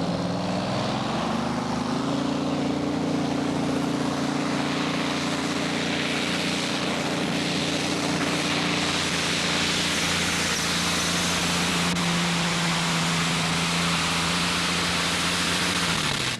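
Pulling tractor's engine running flat out under load on a pull. Its pitch climbs over the first two seconds, holds high, then settles lower about ten seconds in.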